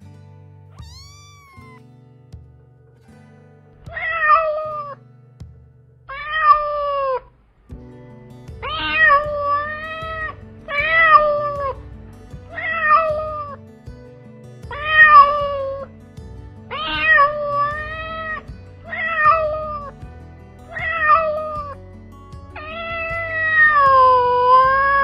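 Kitten meowing repeatedly, about ten separate meows roughly two seconds apart, the last one drawn out, over soft background music.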